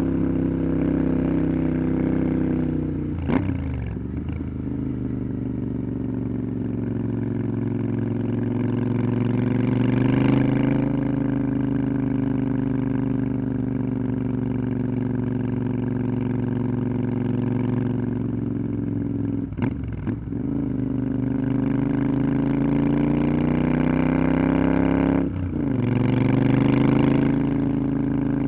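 Motorcycle engine under way, pulling steadily with its pitch climbing as the revs build. Three brief breaks in the note, about 3, 20 and 25 seconds in, are gear changes, each followed by the revs rising again.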